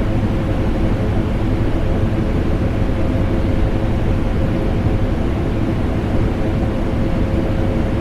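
Vacuum cleaner running continuously, blended with air-conditioner noise: a deep, even rumble with a faint steady whine on top, unchanging throughout.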